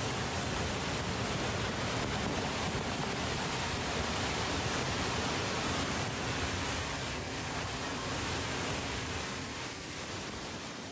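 Fast-flowing floodwater rushing, a steady, even noise that eases slightly near the end.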